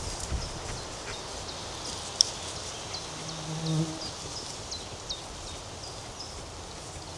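Small birds chirping, many short high calls over and over, with a sharp click about two seconds in and a brief low hum a little after.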